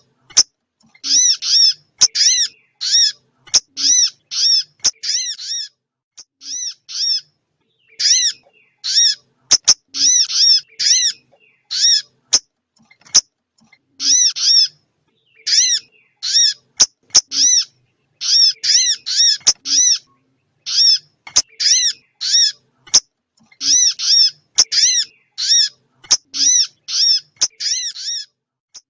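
Recorded calls of a small songbird played as a trapping lure: sharp, high chirps in quick runs of two to five, a run about every second, with an occasional sharp click between them.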